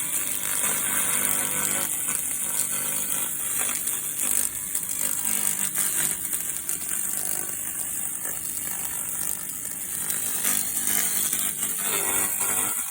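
Pulsed laser cleaning of a metal enclosure: a steady, high, crackling hiss as the laser beam ablates rust and dirt from the surface.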